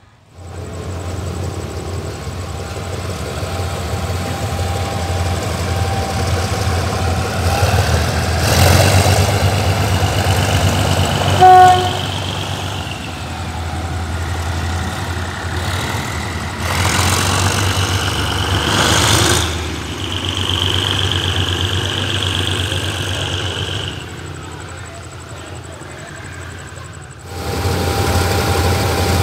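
Diesel train engine running with a steady low rumble, with one short, loud horn toot a little before halfway. High-pitched squealing tones come in for a few seconds about two-thirds of the way through.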